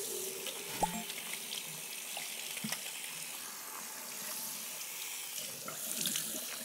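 Water running steadily from a tap into a sink, with a few light knocks and clicks.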